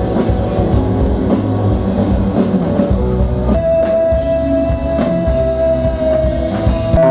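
Rock music with electric guitar, bass and drum kit playing at full volume. A held high note comes in about halfway through, and the drums and bass cut off suddenly near the end.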